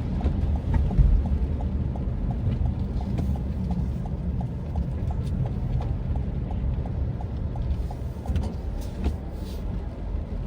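A car's turn-signal indicator ticking evenly, a few ticks a second, then stopping near the end, over the steady low rumble of the car running, heard from inside the cabin.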